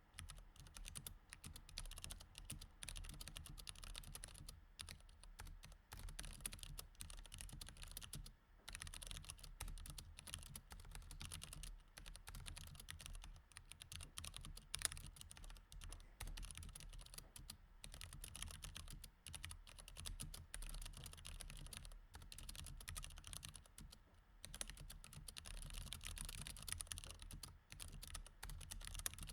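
Continuous fast typing on a mechanical keyboard with Cherry MX Red switches: a quick run of key clicks with short pauses about eight seconds in and again near 24 seconds, over a faint low hum.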